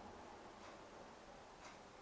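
Near silence with two faint ticks about a second apart.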